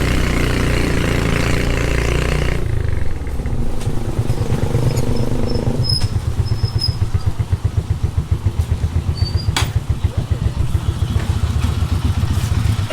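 Motorcycle engine running steadily, then settling from about three seconds in to an idle with a fast, even throb.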